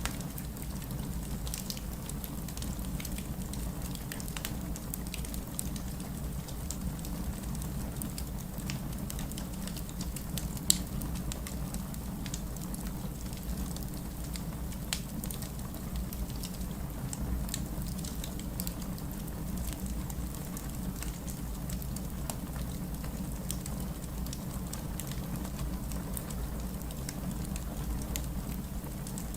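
Steady heavy rain, a deep even hiss, mixed with a wood fire crackling in a fireplace: scattered small pops throughout and one sharper pop about ten seconds in.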